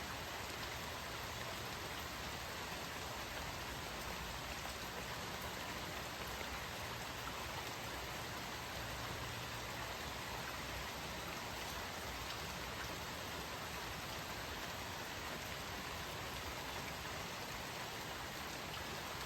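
Steady rain falling, a constant hiss of drops with faint scattered patter on surfaces.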